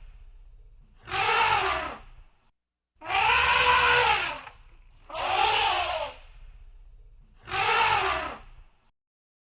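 Elephant trumpeting: four separate blasts about a second apart, each lasting about a second, with the pitch rising and then falling.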